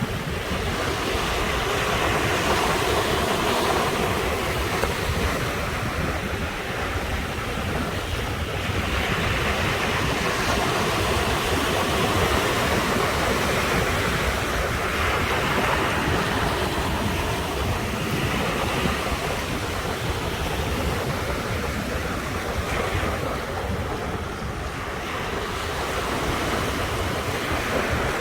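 Ocean surf washing onto the shore: a steady rushing wash that swells and eases every several seconds as waves break.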